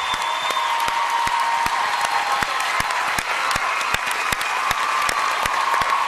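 Studio audience applauding and cheering: dense clapping under sustained crowd shouts.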